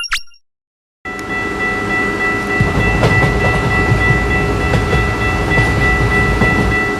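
A railroad crossing bell's last ding fades, and after a short gap a passing train comes in: a steady rumble with faint clicking, and a steady high-pitched tone held over it.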